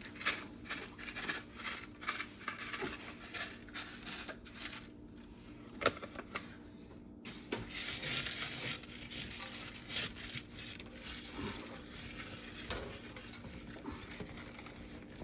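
Kitchen handling noises: rustling and crinkling with scattered small taps and knocks as food is handled, and one sharp click about six seconds in.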